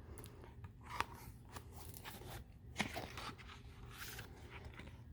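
Faint rustling and crinkling of paper as a book's pages are handled and turned, with a few short soft clicks.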